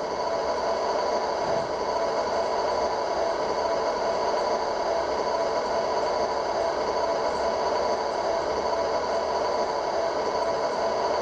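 MTH RailKing R26/28 Redbird model subway set running: a steady electric hum with several held tones over the rolling noise of the model and its sound system.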